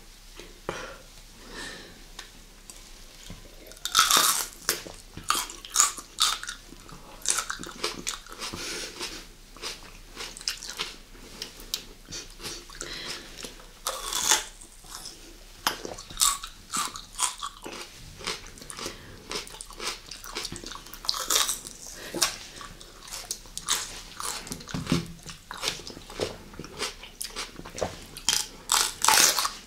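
Raw mini sweet peppers being bitten into and chewed close to the microphone: crisp crunches at each bite, with softer wet chewing between them.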